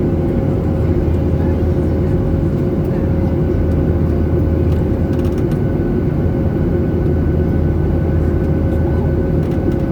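Steady jet airliner cabin drone: engine and airflow noise heard from inside the passenger cabin in flight, with a constant hum running through it.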